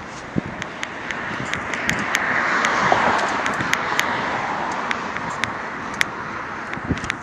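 A car passing close by, its tyre and road noise swelling to a peak about three seconds in and then fading, over irregular sharp clicks and rattles from the ride.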